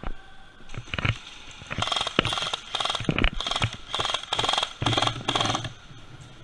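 Airsoft electric gun firing a rapid string of short full-auto bursts, about two to three a second, the gearbox rattle starting about two seconds in and stopping around five and a half seconds. A couple of sharp clicks come about a second in.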